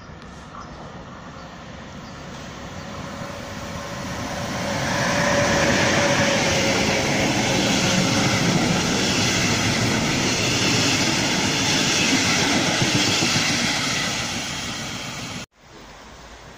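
Regional passenger train with red double-deck coaches approaching and passing close by at speed, growing louder over the first few seconds. The sound cuts off suddenly near the end.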